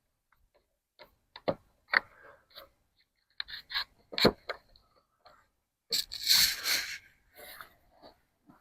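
Irregular clicks and light scrapes of hands-on work, with a louder, noisy scraping rustle lasting about a second starting about six seconds in.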